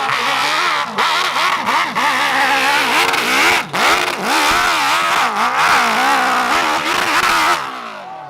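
Motocross bike engine revving hard under load on a steep hill climb, its pitch swinging up and down with a few brief throttle cuts. About seven and a half seconds in it drops off sharply and fades with falling pitch.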